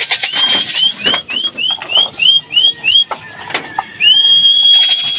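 A person whistling to call racing pigeons down to the loft: a string of about eight short rising whistles, then one long held whistle. A fast rattle is heard at the start and again near the end.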